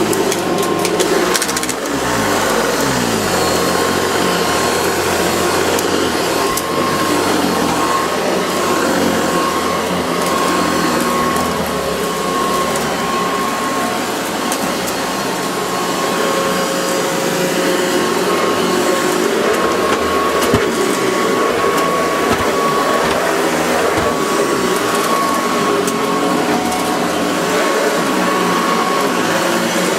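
Hoover Decade 80 upright vacuum cleaner running steadily, with a constant high whine over its rushing air noise.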